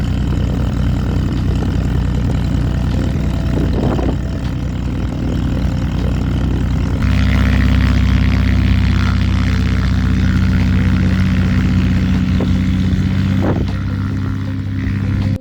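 Light propeller aircraft's piston engine running steadily close by. About halfway through the sound changes abruptly to a louder, steadier drone.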